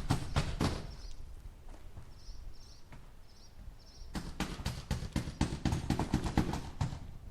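Hammer driving nails into wood in quick blows, about five or six a second: a run that stops within the first second, then another from about four seconds in to near the end. In the pause a few faint, short high chirps are heard.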